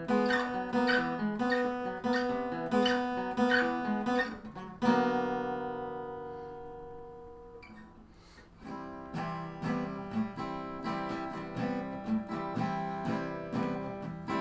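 Acoustic guitar being played in a repeating picked pattern. About five seconds in, a chord is struck and left to ring and fade for about three seconds. Then the playing starts up again.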